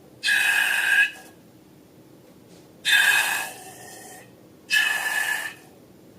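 Air rushing out of a balloon's neck in three short bursts, each a hiss carrying a steady whistling tone.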